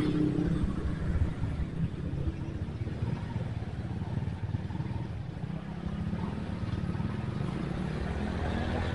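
Honda Tiger motorcycle's single-cylinder engine running with a steady low rumble as the bike waits in traffic and then moves off; the rumble thickens about six seconds in as it pulls away.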